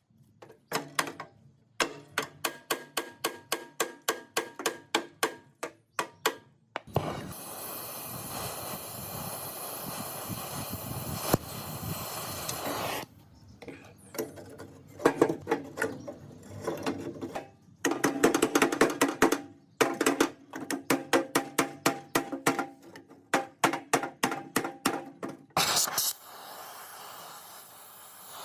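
Repeated metal-on-metal strikes, about three a second, each ringing briefly, in two long runs. Between them comes a stretch of steady hissing, and the hiss starts again near the end.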